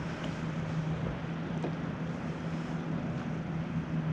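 Steady outdoor noise of wind on the microphone over open water, with a low steady hum underneath and one faint tick about a second and a half in.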